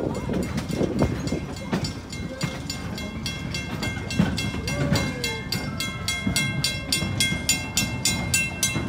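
Narrow-gauge passenger train rolling along, heard from aboard: wheels clacking over the rail joints in a quickening rhythm over a steady rumble. About three seconds in, a steady high ringing tone joins.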